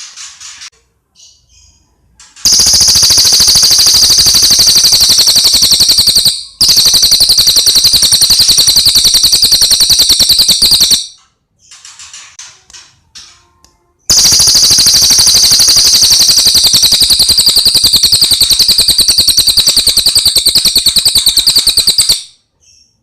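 Cililin bird song: long, loud, high-pitched trills of rapidly repeated notes, like a rattle, in three long runs with softer chirps between them.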